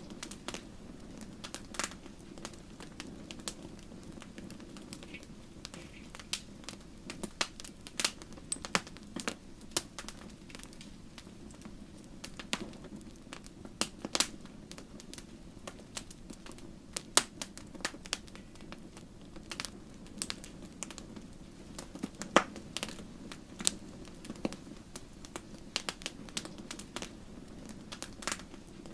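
Wood fire crackling in a fireplace: irregular sharp snaps and pops, a couple of them louder about two-thirds of the way through, over a steady low rumble.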